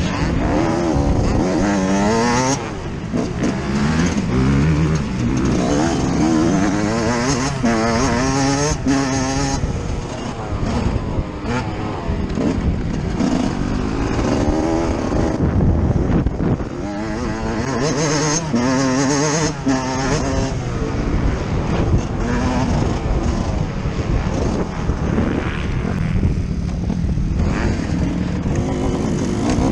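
Yamaha YZ125's single-cylinder two-stroke engine heard on board while riding motocross. It is revved up and down over and over, its pitch climbing and dropping through the throttle and gear changes.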